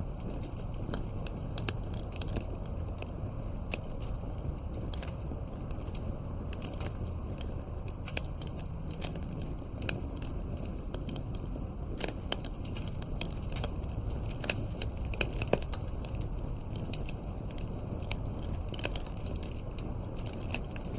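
Campfire burning: a low steady rush of flames with irregular sharp crackles and pops of burning wood, a few louder pops in the middle.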